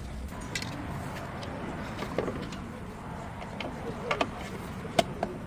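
Scattered light knocks and clicks over steady background noise, the sharpest about five seconds in, as of parts and tools being handled during clutch work.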